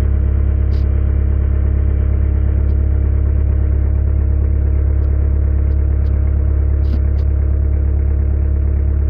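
A 1988 Bobcat 843 skid loader's Isuzu diesel idles steadily shortly after a cold start.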